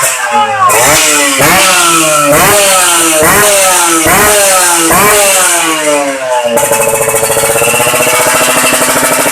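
Kawasaki Ninja R two-stroke motorcycle engine through a 'knalpot bambu' racing exhaust, revved in quick throttle blips about once a second, each rising and falling in pitch, then held at a steady raised rev for the last few seconds.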